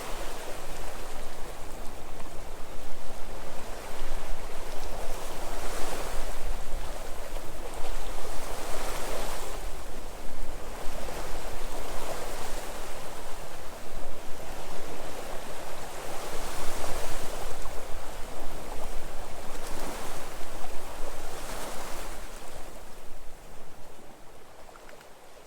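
Sea waves breaking and washing in, a surge every two to three seconds over a constant wash of surf, fading out near the end.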